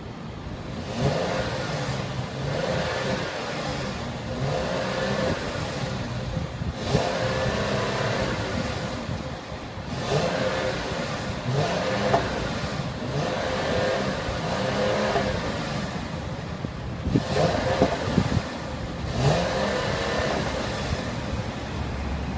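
Mercedes-Benz ML350's 3.5-litre V6 engine, revved again and again in short blips, roughly one every two seconds, each rising and falling in pitch.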